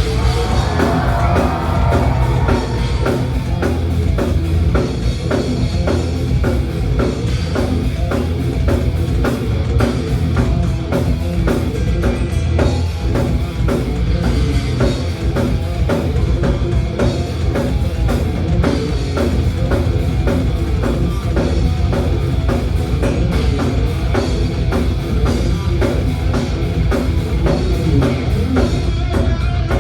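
A thrash metal band playing live: a fast, driving drumbeat with distorted electric guitars and bass, loud and unbroken.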